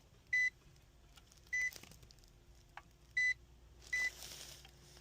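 Four short, high electronic beeps, a second or so apart at irregular intervals.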